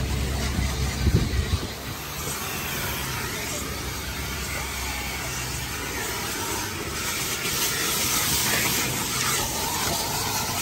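Car wash vacuum hose sucking air with a steady hiss, growing brighter in the second half. For the first couple of seconds a low rumble, which cuts off suddenly.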